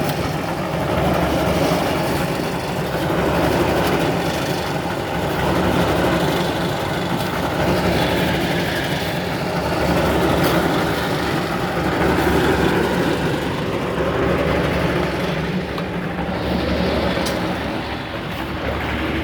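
Concrete mixer running steadily, its engine humming at a constant low pitch, with a slow, regular swell in loudness about every two seconds as the drum turns the mix.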